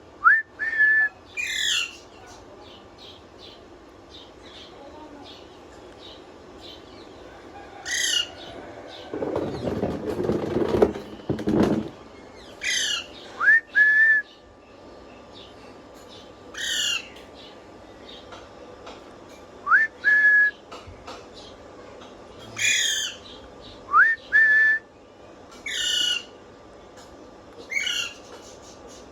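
Pet parrot whistling the same short phrase over and over, every few seconds: a quick rising whistle that holds its note, with fast falling chirps above it. About ten seconds in there is a harsher, noisy stretch of about two seconds.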